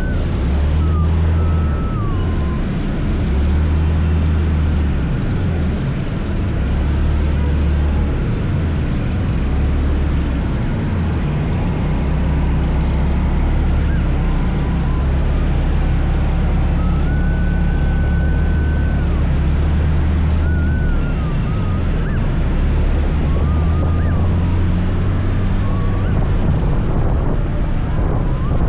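Scooter on the move: engine running with a heavy low rumble that swells and eases as it speeds up and slows, and a thin wavering whine that comes and goes.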